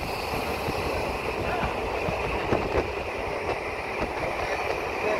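Running noise of a moving electric passenger train (MEMU) heard from an open doorway: a steady rumble of wheels on the rails with scattered knocks, and wind rushing past.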